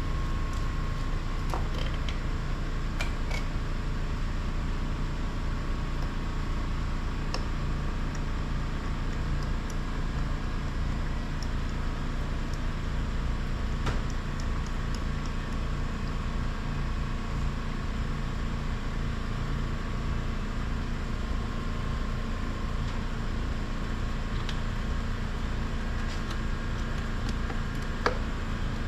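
A steady low mechanical hum, like a fan or motor running, with a faint click now and then.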